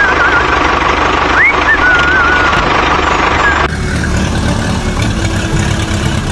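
Homemade mini tractor's motor running steadily, with high wavering chirps over it in the first half; the sound changes abruptly about two-thirds of the way through.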